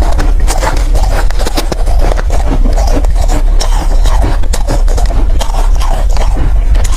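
Close-miked crunching and chewing of soft ice in quick, uneven bites.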